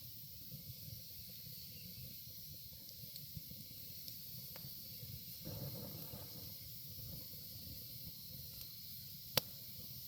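Wood bonfire burning, with a steady low rumble and hiss, a few faint crackles, and one sharp pop about nine seconds in.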